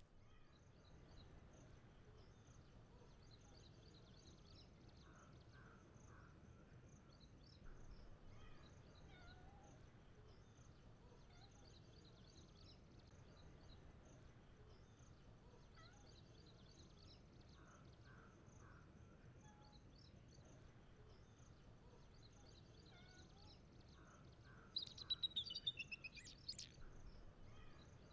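Quiet woodland ambience: scattered faint bird chirps over a steady high insect trill, with a louder burst of bird calls, several quick falling notes, near the end.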